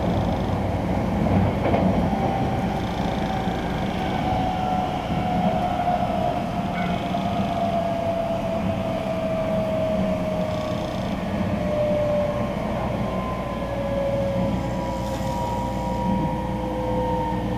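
Running sound inside a Keisei AE-series (2010) express train car at speed: a steady rumble of wheels on rail, with a thin motor whine that slowly falls in pitch as the train slows.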